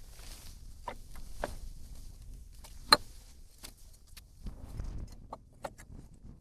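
Footsteps on a rocky trail: irregular clicks and knocks of boots on stone, with one sharp crack about three seconds in. Under them is a low wind rumble on the microphone.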